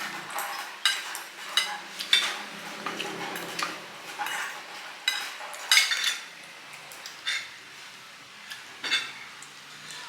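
Metal spoon and fork clinking and scraping against a plate or bowl during a meal, a dozen or so irregular sharp clinks.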